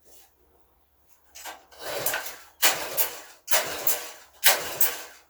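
Craftsman pressure washer's small engine being pull-started: about five quick yanks of the recoil starter cord, roughly one a second, each a sudden whirring rush that fades. The engine turns over but does not catch, because the fuel valve is shut.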